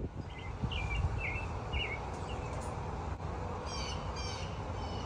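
Wild songbirds chirping: a few short chirps in the first two seconds, then a quick run of high, repeated notes near the end, over a steady low rumble.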